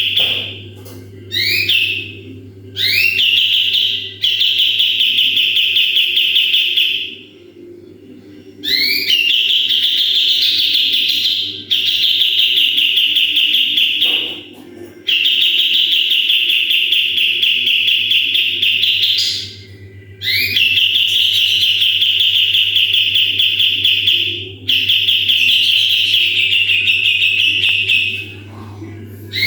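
Kapas tembak songbird singing its rapid 'tembakan' song: long bursts of fast, high trilling a few seconds each, several opening with quick rising whistles, broken by short pauses. A steady low hum runs underneath.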